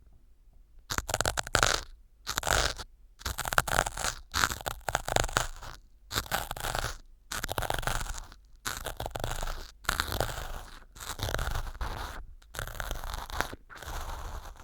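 Ear pick scraping and crunching through small pieces of floral foam packed as fake earwax in an ear model, picked up close on a binaural microphone. After about a second of quiet, about a dozen crunchy scraping strokes follow, roughly one a second, with short pauses between them.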